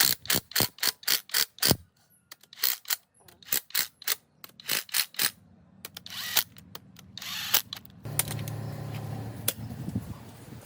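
Ratchet wrench clicking in quick runs of strokes, then two short hissing bursts, and from about eight seconds in a steady low machine hum.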